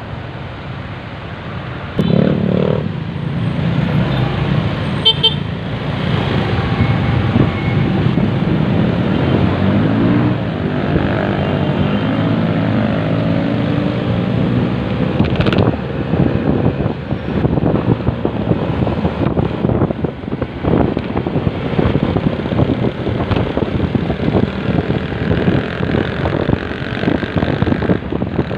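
Motorcycle riding in city traffic: engine and road noise throughout. A vehicle horn toots about two seconds in, and the engine note rises around ten seconds in as it speeds up.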